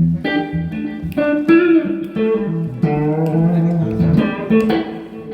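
Electric guitar played through an amplifier during a sound check: a phrase of picked single notes, some held and wavering in pitch with bends or vibrato.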